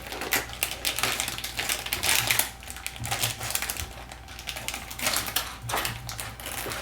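A plastic blind-bag packet crinkling and crackling in irregular bursts as it is torn open and handled.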